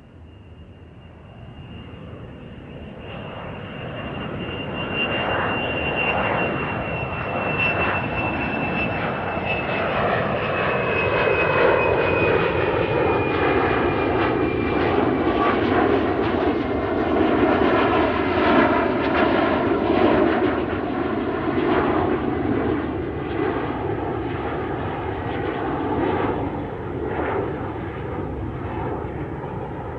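An airplane flying over. Its engine noise swells over the first few seconds, carrying a high whine that slowly falls in pitch. It then becomes a loud, steady rush that eases off a little toward the end.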